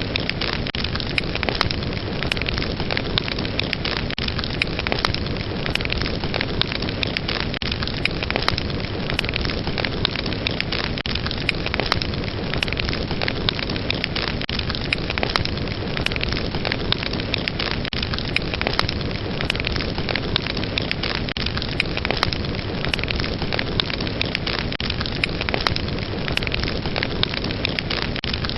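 Fireplace fire burning steadily with a dense bed of rushing flame noise and frequent sharp crackles and pops.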